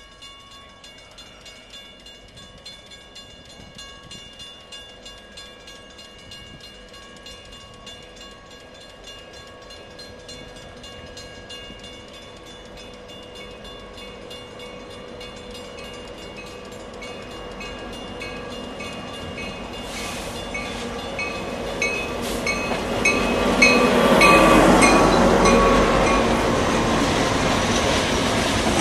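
Freight train led by a CSX SD70AC diesel locomotive approaching and passing, growing steadily louder to its loudest about three quarters of the way through. A bell rings at an even rhythm of about two strokes a second throughout.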